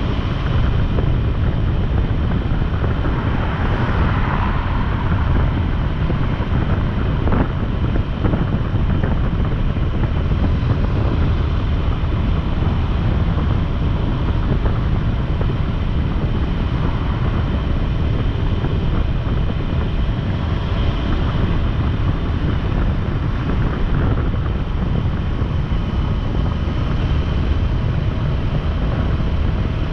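Motorcycle on the move at a steady pace: the engine running under wind noise on the microphone.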